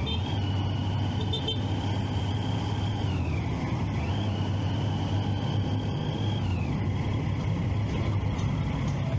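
A Triumph Street Triple 675's three-cylinder engine runs steadily under riding noise on the move. Above the engine drone, a thin high whine climbs quickly, holds for a couple of seconds and falls away, twice.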